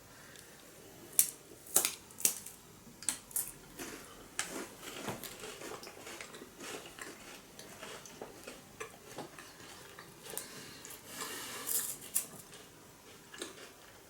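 Filled Pokémon cookies being bitten and chewed close to the microphone: irregular sharp crunches and clicks, with a denser run of crunching near the end.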